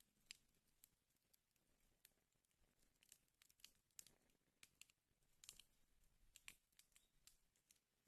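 Wood fire crackling in a fireplace: faint, irregular sharp pops and snaps, a few each second, over a low hiss.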